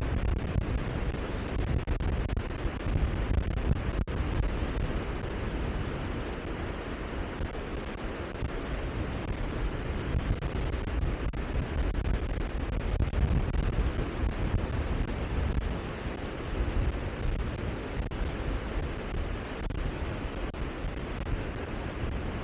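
Wind buffeting the microphone: a steady rumbling noise that swells and eases.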